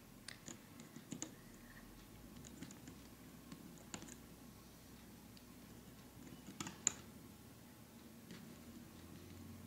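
Faint, scattered clicks and snaps of rubber bands being stretched onto the pegs of a plastic bracelet loom, with the sharpest click about seven seconds in.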